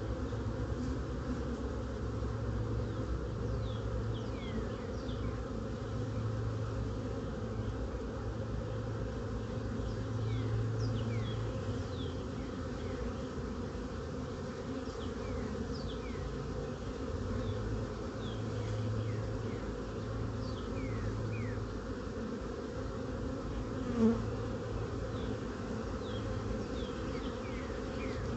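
Steady hum of a honeybee colony in an opened hive during a frame inspection, swelling and easing a little. Short, high falling chirps sound over it now and then, and there is one sharp tap about 24 seconds in.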